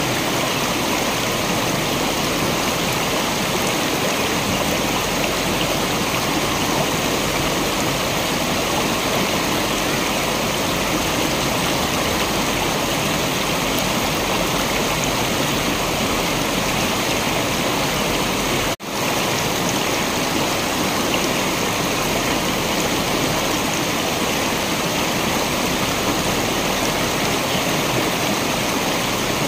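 Waterfall water rushing in a steady, even roar of noise, cut by a brief dropout about two-thirds of the way through.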